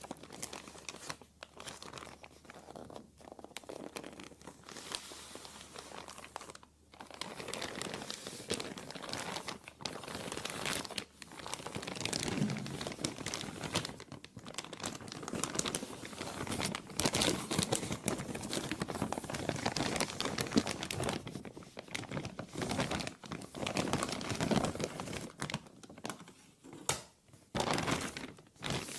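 Plastic being crumpled and crinkled continuously, a dense crackling with brief pauses, getting louder about a third of the way in.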